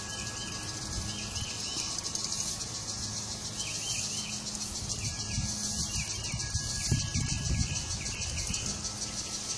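Chorus of 13-year periodical cicadas: a steady, high, rapidly pulsing buzz. Groups of short repeated chirps come and go over it.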